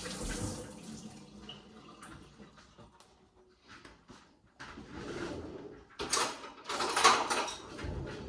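Kitchen tap running as hands are washed, fading out about a second in. Later, louder sudden knocks and clatter of kitchenware.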